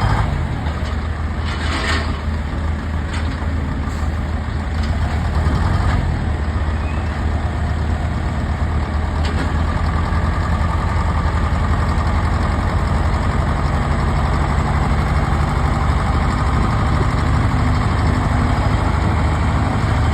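Tractor engine running steadily, with a brief burst of hiss about two seconds in.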